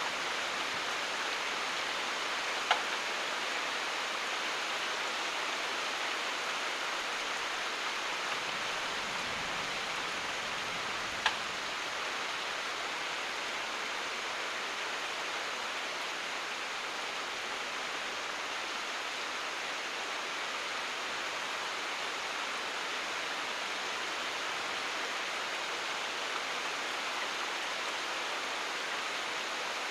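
Steady rain falling, an even hiss with no thunder. Two sharp single ticks stand out, about three seconds in and again about eleven seconds in.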